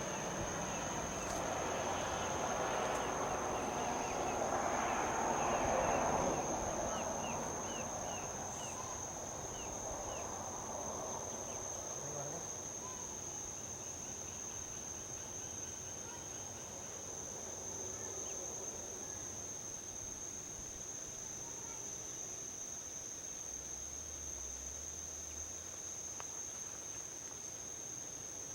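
A steady high insect trill, typical of crickets, runs throughout. A vehicle passing on a highway swells to its loudest about six seconds in and fades away, leaving a softer traffic hiss. A quick run of short chirps comes as the vehicle passes.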